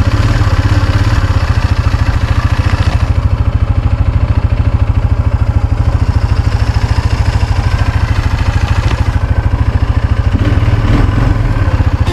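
ATV engine running steadily, loud and close, with an even rapid pulse from its firing.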